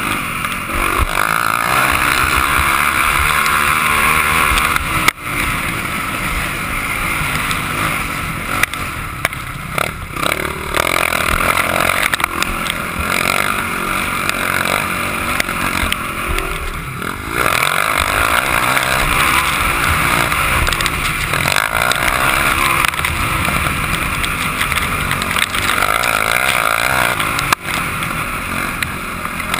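Motocross bike engine running hard and revving up and down, with two brief drops in power.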